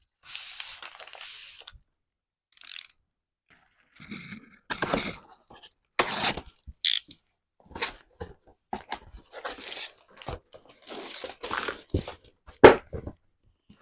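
Packaging and cardboard puzzle boxes being handled and unpacked. First a short stretch of paper rustling, then irregular crinkles, scrapes and knocks, with one sharp knock near the end.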